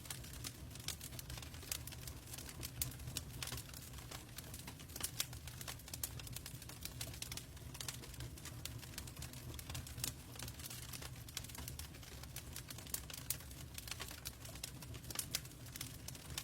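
Log fire burning in a fireplace, crackling with irregular sharp pops and snaps over a low steady rumble.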